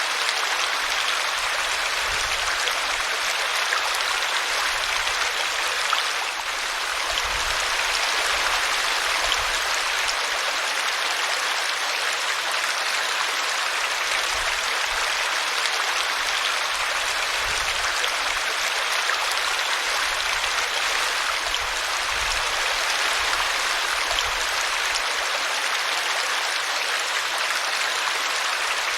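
A small brook babbling steadily as it spills over a tree root, an even rush of running water with faint low gurgles now and then.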